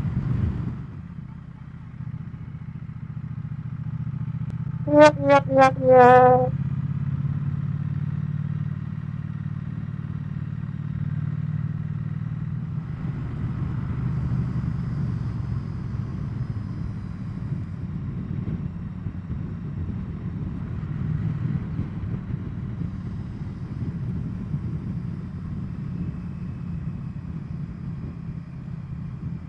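Triumph Bonneville T100's parallel-twin engine running steadily while riding, with wind and road noise. About five seconds in, four short pitched toots in quick succession, each dipping slightly in pitch.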